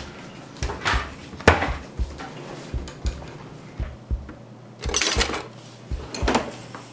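Metal cutlery and kitchen utensils clattering in a drawer as it is opened and rummaged through, with separate clinks and a louder, longer scraping rattle about five seconds in as a large kitchen knife is pulled out.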